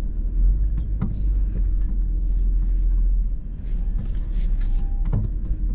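Hummer H2's V8 engine running at low speed, a steady low rumble.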